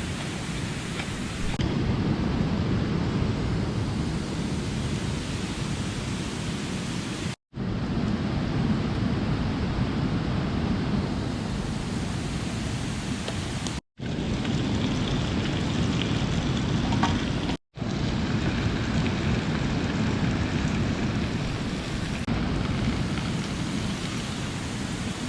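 Steady rush of a mountain stream, an even, unbroken noise with most of its weight in the low end, cut off to silence three times for a split second.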